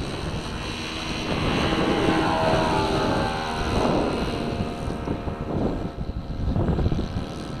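Nitro glow engine of a Kadet LT40 radio-controlled trainer plane running at high power as it climbs out after take-off. Its whine slides down in pitch about two seconds in, and wind buffets the microphone.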